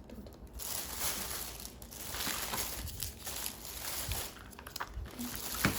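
Takeout food packaging being unwrapped: uneven rustling and crinkling of the wrapping with small handling knocks.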